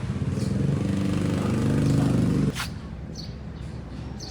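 An engine running with a steady, even pitch, growing a little louder, then cut off abruptly about two and a half seconds in. After it, a few short bird chirps over a quiet background.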